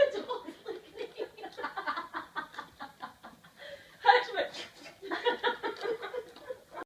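Soft chuckling laughter in quick repeated notes, about five a second, in two bouts with a short pause around the middle.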